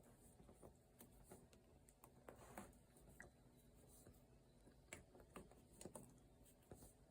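Near silence with faint, scattered ticks and taps as a hook picks up cotton loops on a potholder loom during a bind-off.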